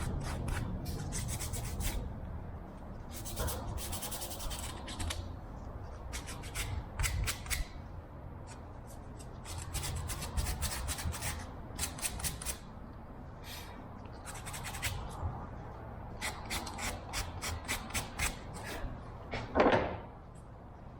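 Hand-work handling noises in a workshop: a run of short, irregular scrapes, rubs and clicks, with a louder squeaky rub near the end.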